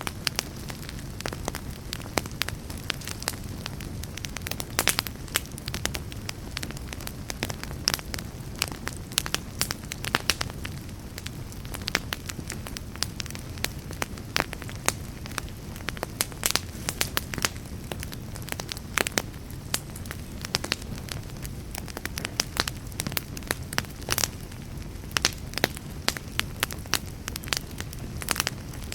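Fire crackling: frequent, irregular sharp pops and snaps over a steady low rumble of burning.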